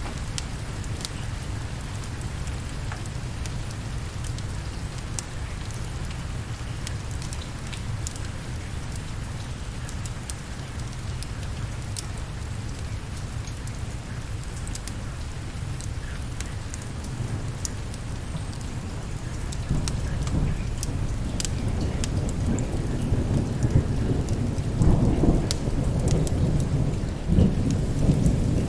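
Steady rain with a low rumble underneath and scattered sharp clicks. About two-thirds of the way through, a roll of thunder builds and grows loud near the end.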